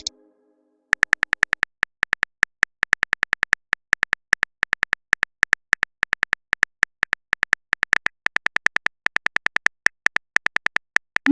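Typing sound effect: a fast run of crisp keyboard-style clicks, about six a second at an uneven rate, ending in a short rising swoosh as the message is sent.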